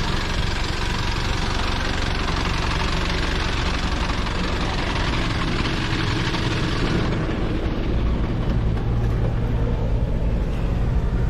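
Vehicle engine running under a heavy hiss of road and wind noise. About seven seconds in the hiss drops away, leaving the engine's low rumble louder.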